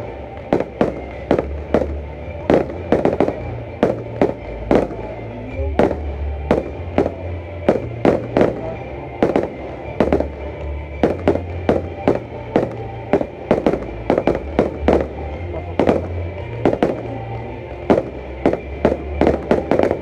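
Fireworks display: a steady run of sharp bangs from shells bursting in the air, two or three a second, with music playing beneath.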